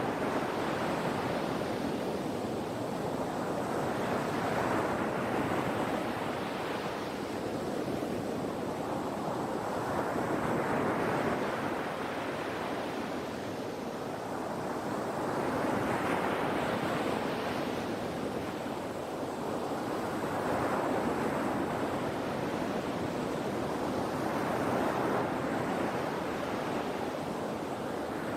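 Sea waves in steady surf, a swell of rushing water rising and falling about every five seconds.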